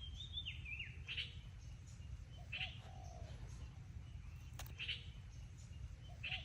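Short bird chirps repeating every second or two, with a few lower sliding notes in between, over a steady low hum; a single sharp click comes about four and a half seconds in.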